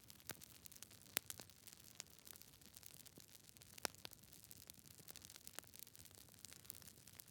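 Wood fire crackling softly, with a steady patter of small crackles and a few louder sharp pops, one about a second in and another near four seconds in.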